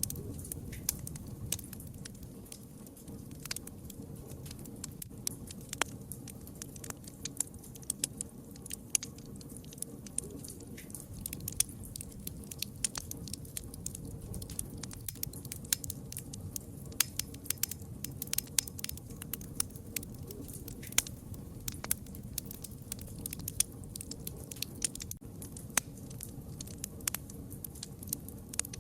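Wood fire crackling, with frequent sharp, irregular pops over a steady low rumble of burning.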